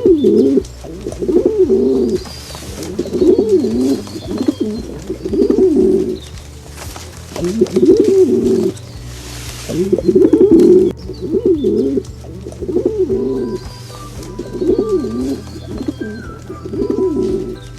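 Pigeons cooing: repeated low coos in phrases of about a second each, one after another.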